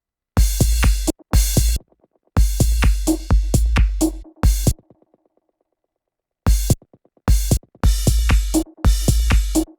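Electronic techno drum-machine beat made with Ableton Live's built-in devices: a deep, heavy kick with noisy hi-hat-like hits on top. It plays in chopped stretches broken by dead-silent gaps, with the longest silence about halfway through.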